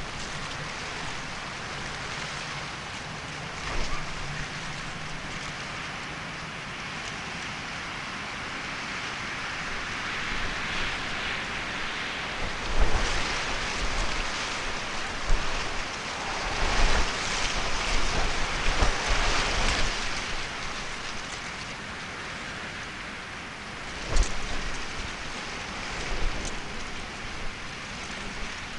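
Rain falling steadily, a continuous hiss that swells louder in the middle, with a few short low thumps.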